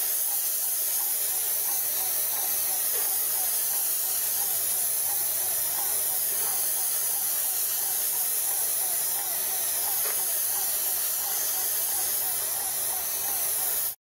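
Airless spray gun spraying tarmac restorer onto a playground surface: a loud, steady hiss.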